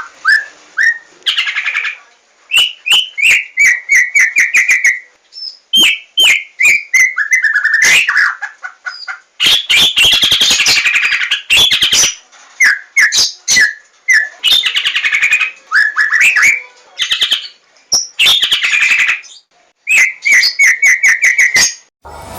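A Javan white-rumped shama (murai batu 'larwo') singing loudly. It gives runs of quick repeated whistled notes alternating with dense, rich phrases, with brief pauses between them.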